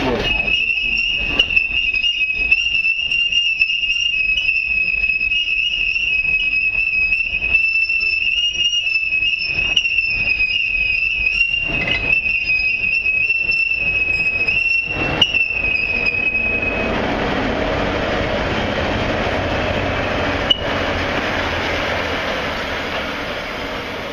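Alishan Forest Railway train's wheels squealing steadily on the rails, one high held tone, with rail-joint clicks ticking under it. About two thirds of the way through the squeal cuts off and the train runs on with a steady rushing rumble.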